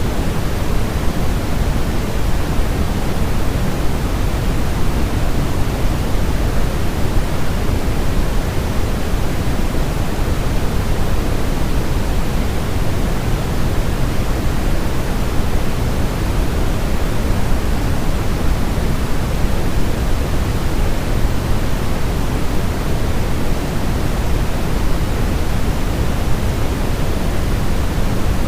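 Steady, unchanging synthetic noise with most of its weight in the low end, a deep pink-noise hiss with no rhythm or breaks. It is white noise made to soothe a crying baby to sleep.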